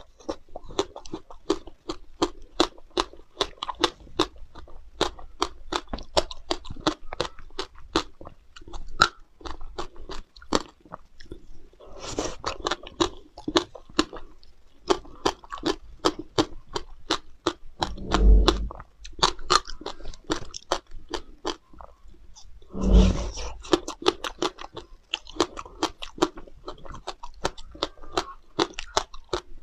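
Close-up crunching and chewing of frozen passion fruit, sharp icy crunches about three a second. Two louder, deeper bites come past the middle.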